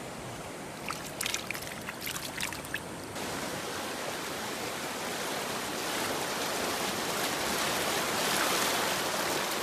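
Rain-swollen paddy water running and spilling into a small ditch, a steady rush of water that gets louder about three seconds in. A few short splashes or knocks come in the first seconds.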